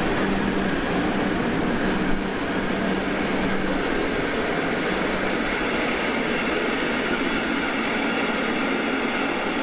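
Electric locomotive hauling passenger coaches past, a steady running noise of wheels and traction gear. A low hum stops about two seconds in, with a brief knock at about the same moment.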